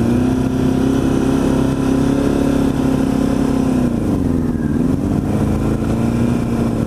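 Motorcycle engine running at steady revs while riding, the pitch sagging about four seconds in and picking back up. Its idle is set far too high after a repair, so the engine keeps pulling hard even off the throttle.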